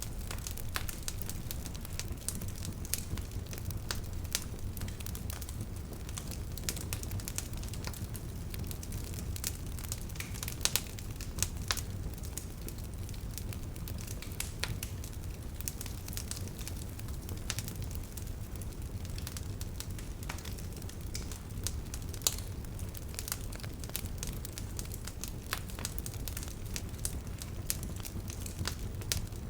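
Bonfire crackling: a dense, irregular run of small sharp snaps and pops over a steady low rush of the burning wood, with a few louder pops near the middle and once more later on.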